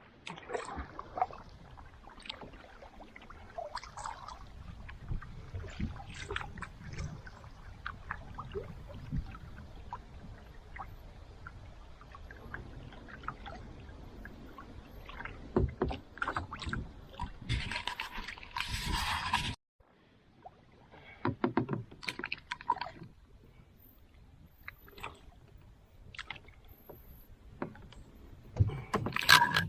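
Wind buffeting the microphone in a low, continuous rumble over water lapping against a small boat, with scattered light knocks and clicks. The sound cuts out abruptly about twenty seconds in and resumes quieter.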